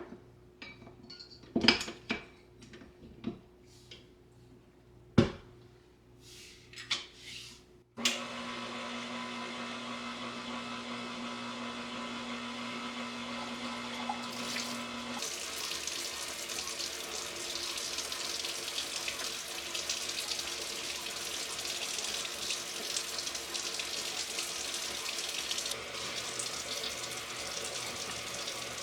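A few sharp knocks and clinks. Then, about eight seconds in, a steady rush of running water starts abruptly and continues, growing hissier partway through.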